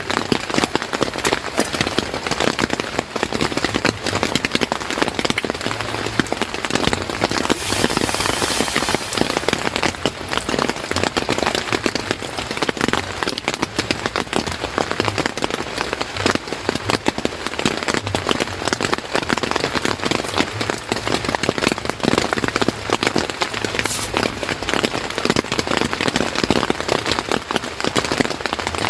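Steady heavy rain, a dense patter of drops hitting a surface, with a brief louder hiss about eight seconds in.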